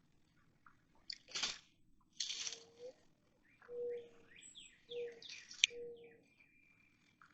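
Several birds chirping and calling, with quick falling chirps and a few short repeated lower notes. Two short bursts of noise and one sharp click stand out among the calls.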